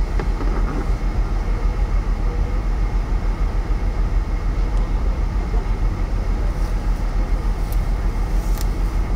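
Strong wind buffeting the microphone: a loud, unsteady low rumble with rapid surges and no distinct events.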